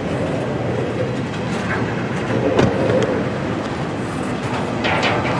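Intermodal freight train of TTX well cars rolling past: a steady rumble of wheels on rail, with a clank about halfway through and another, sharper one with a short ring near the end.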